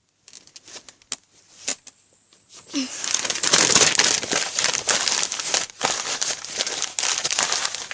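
Campfire crackling: a few scattered pops at first, then about three seconds in a dense, loud crackle as the fire flares up.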